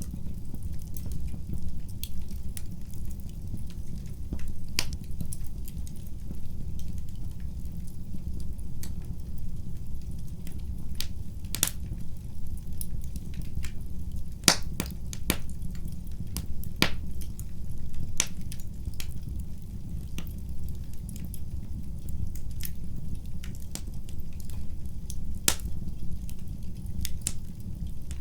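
Fire in a fireplace crackling: irregular sharp pops and snaps over a steady low rumble, with the sharpest pop about halfway through.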